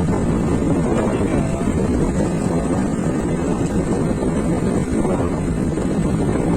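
Steady wind rumble on the microphone from riding a motor scooter, with the scooter's engine running underneath.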